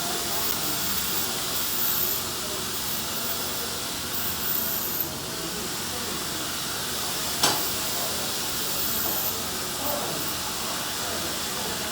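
TIG welding arc on steel pipe, a steady hiss, with one sharp click a little past halfway.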